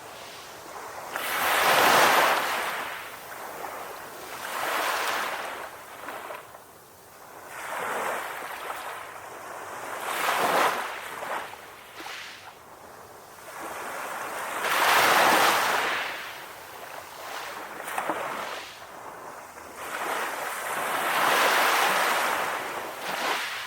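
Calm ocean waves breaking and washing in: a rush of surf that swells and fades every two to four seconds, some surges louder than others.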